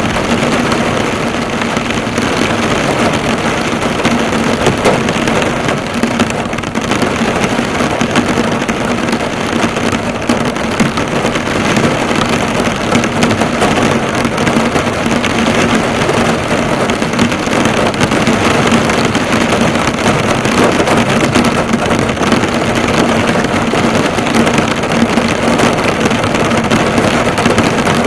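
Heavy rain drumming steadily on a car's hood, with dense drops pattering on the metal.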